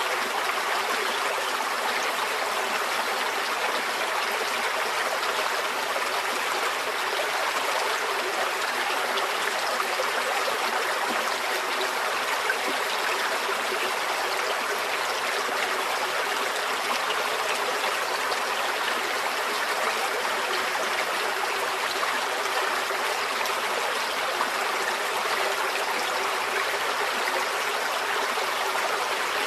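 Small stream flowing steadily over rocks, a continuous even rush of water with fine trickling and no breaks.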